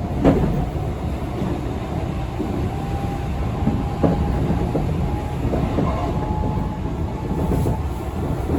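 Tobu electric express train heard from inside the car while running: a steady low rumble, with a few sharp knocks as the wheels cross rail joints and a faint whine in the middle.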